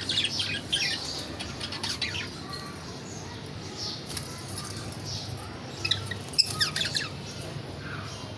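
Budgerigars chirping in quick clusters of short, high chirps: at the start, around two seconds in, and again around six to seven seconds in. A single sharp click comes just before the last cluster.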